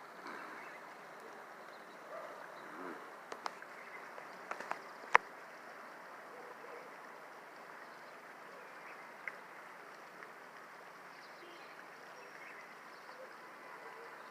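Floodwater running steadily through a city flood channel. A few sharp clicks come about three to five seconds in, the loudest near five seconds, and one more around nine seconds.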